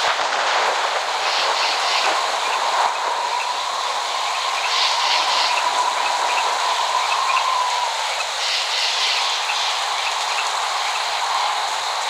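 Steady rain hiss with no thunder. A thin, faint whistle-like tone runs under it and stops about eight seconds in, and short high chirps come back every few seconds.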